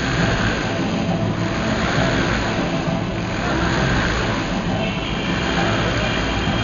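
Three motorcycle engines running hard inside a spherical cage, their sound swelling and fading in a steady cycle about every second and a half as they circle.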